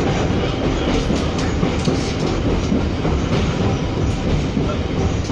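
1947 streetcar running along its track: a steady rumble of wheels on rail, with a few faint irregular clicks.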